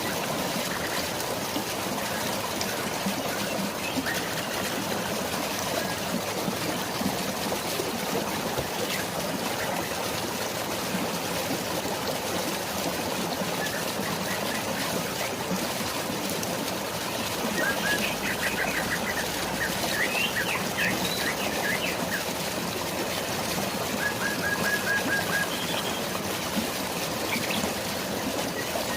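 Steady rush of flowing water and rain, with bird calls of rapid repeated chirps over it from about halfway through.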